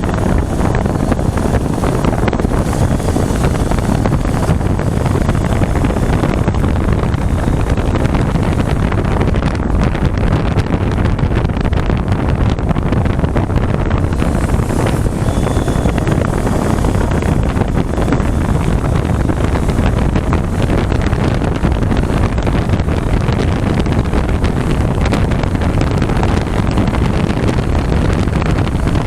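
Steady, heavy wind noise buffeting the microphone on a 400cc motorcycle riding on the highway, with the bike's engine and road noise blended into the rush.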